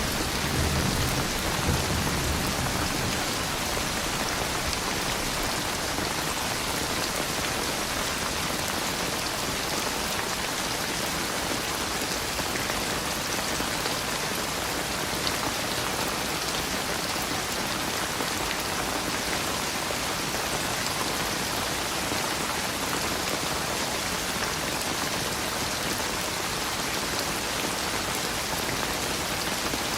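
Steady, heavy rainfall, a dense even hiss of drops. A low rumble of thunder dies away in the first few seconds.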